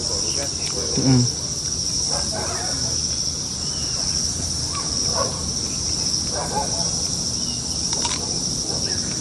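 Steady, high-pitched chorus of insects in the trees, one unbroken shrill drone.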